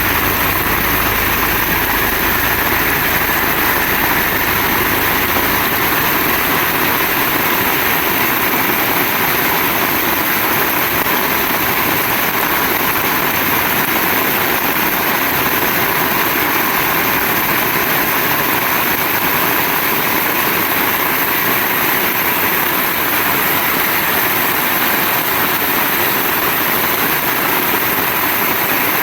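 Heavy rain falling in a steady, loud hiss. A low rumble fades out in the first few seconds.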